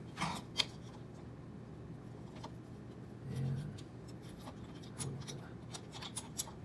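Small 3D-printer hotend parts being handled and fitted together by hand: scattered light clicks and taps with some rubbing, and a short low sound a little past halfway.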